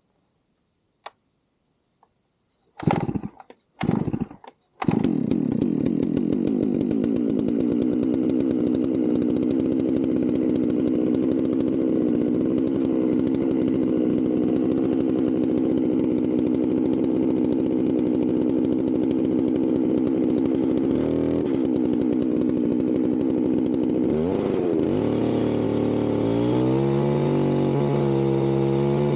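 Two-stroke chainsaw ripping a log lengthwise in a chainsaw mill, running hard and steady after a few short bursts. Near the end the revs drop and waver, then settle into a lower, steadier note.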